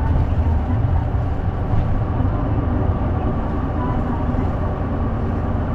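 Diesel engine of a J-Bus city bus, heard from inside the cabin, pulling under load with a deep drone that gets louder right at the start and holds.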